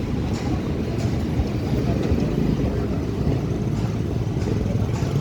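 Steady low rumble of passing heavy vehicles, with faint clicks about once a second.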